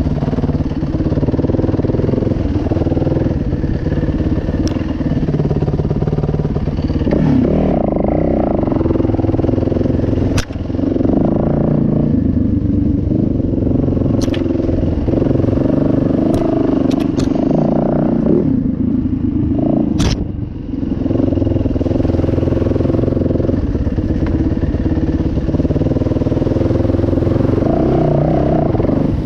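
Dirt bike engine running and revving as the throttle opens and closes, with a few sharp clacks, the strongest about ten and twenty seconds in.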